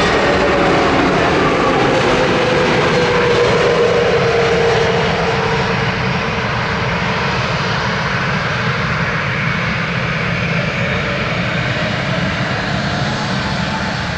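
Airbus A320neo's CFM LEAP-1A turbofan engines running with a steady whine and rumble. A tone in the whine falls slightly in pitch over the first few seconds, and the engines grow a little quieter after about five seconds.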